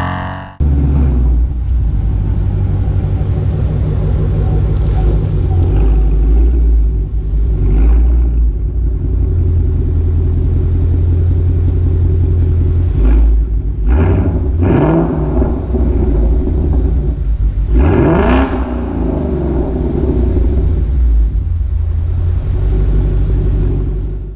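2017 Ford Mustang GT's 5.0 V8 running through a Corsa Extreme exhaust with a deep, steady rumble, the revs rising briefly twice in the second half.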